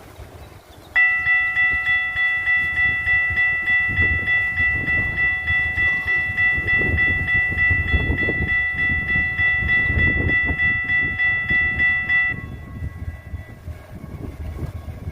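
A warning bell rings rapidly, about three strokes a second. It starts about a second in and cuts off suddenly after about eleven seconds. Under it runs the low rumble of a light rail train.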